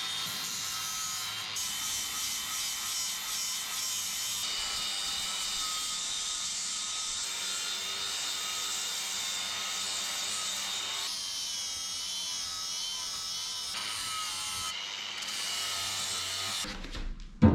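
Angle grinder with a grinding disc running steadily against the edge of a metal fireplace door, whining, its pitch wavering as it is pressed in; the metal is being ground down so the door will close tightly. A loud knock comes near the end.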